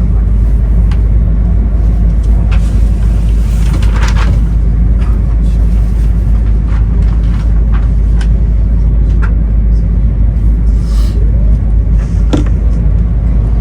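Cabin running noise inside an E2 series 1000 Shinkansen car nearing the Tokyo terminus: a steady heavy low rumble, scattered short clicks and knocks from the wheels, and a brief hiss about four seconds in.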